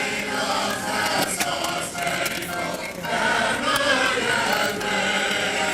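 A choir singing, many voices together in a sustained line.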